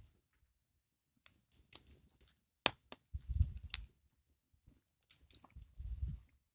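Campfire crackling: irregular sharp pops and snaps of burning wood, coming in clusters with short quiet gaps between, with a low rumble under two of the clusters.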